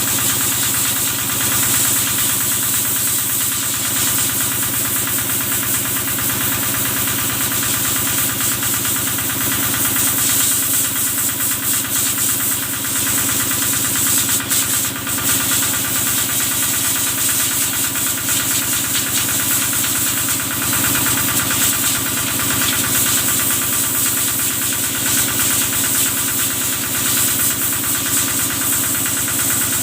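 Kubota diesel engine running steadily at an even speed, driving the water pump for washing cattle, with a steady high hiss over the engine note.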